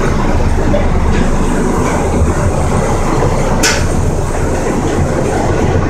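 Zoo miniature train car running through a tunnel: a steady, loud rumble of wheels on rails, with one brief sharp noise about three and a half seconds in.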